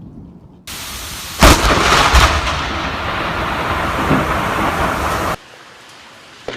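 A close lightning strike: a sharp, very loud thunderclap crack about a second and a half in, a second crack soon after, then rumbling thunder over the hiss of heavy rain, which cuts off abruptly near the end.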